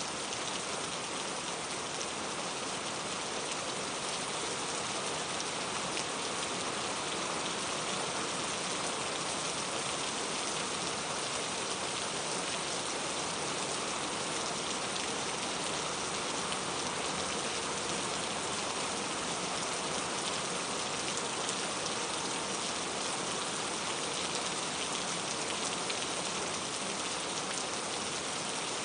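Steady rain falling, a constant even hiss of drops on a surface with no change in intensity.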